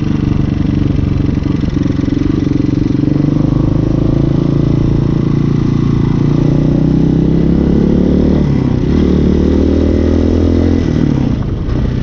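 Hyosung Hawk 250 motorcycle engine pulling under acceleration, its pitch climbing, dropping sharply at a gear change about eight and a half seconds in, climbing again, then falling off near the end. Heard through a GoPro's internal microphone.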